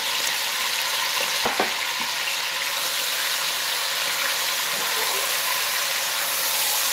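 Sliced lamb and onions frying with a steady sizzle in an enamelled cast-iron pot as they are stirred with a spatula. A single knock about a second and a half in.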